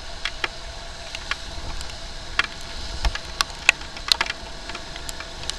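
Raindrops striking the camera or helmet during a motorcycle ride: irregular sharp taps, several a second, over a steady hiss of wet road and traffic noise.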